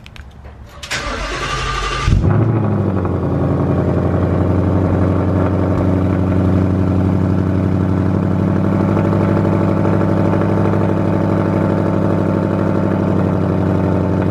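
Ford Mustang GT's 5.0-litre V8 starting cold. The starter cranks about a second in, the engine catches with a brief flare near two seconds, then settles into a steady idle through the quad exhaust.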